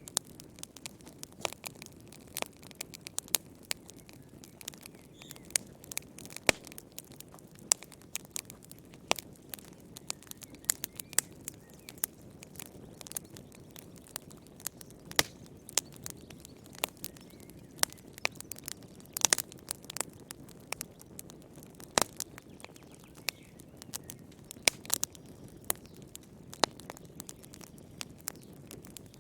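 Wood fire burning in a fireplace, crackling with irregular sharp pops over the soft low rush of the flames.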